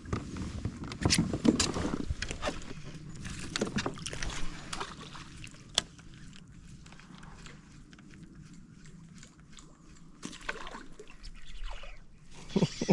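Knocks and clicks of gear being handled in a kayak, with water sloshing against the hull. The knocks come thickly in the first half, thin out in the middle and pick up again near the end.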